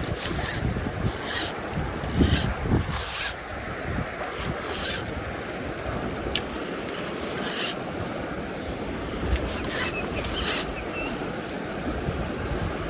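Mountain stream running steadily, with a series of brief, sharp swishes or rubs, several close together at the start and a few more near the end.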